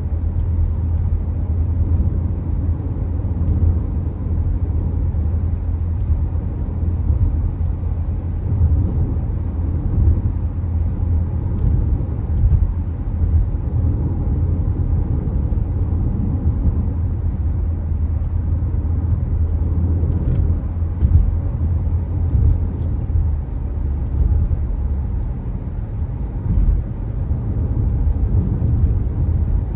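Car driving steadily on the road: a continuous low rumble of engine and tyre noise, with a few faint ticks.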